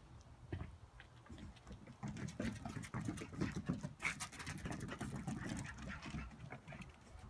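Pomeranian puppies scuffling on a wooden deck: a busy run of claw clicks and scratches with small puppy noises. It picks up about two seconds in and eases off near the end.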